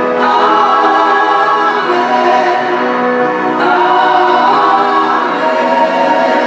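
Several voices singing together in held, sustained notes, choir-like and in a gospel or church style.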